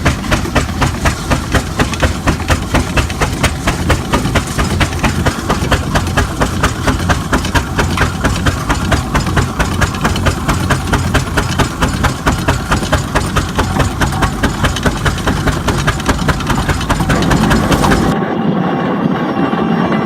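Marshall steam traction engine working, its exhaust beating out a steady, even chuff a few times a second. Near the end the sound cuts to music.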